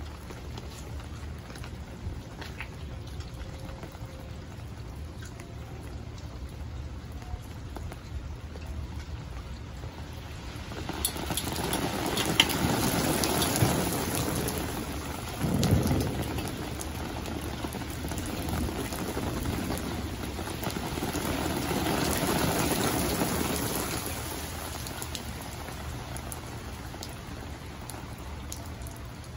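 Rain falling steadily on the water of a swimming pool, a continuous pattering hiss that grows louder twice. A brief low rumble comes about halfway through.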